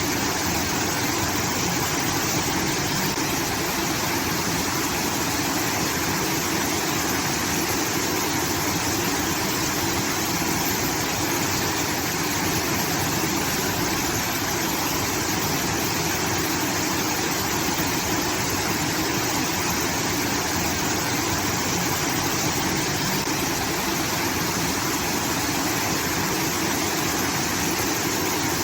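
Water pouring from a rice-field irrigation outlet: a steady, even rush like a small waterfall.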